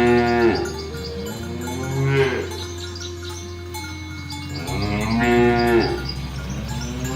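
Cattle mooing repeatedly: a call at the start, another about two seconds in, a longer one around five to six seconds, and a short one near the end, over a steady low hum.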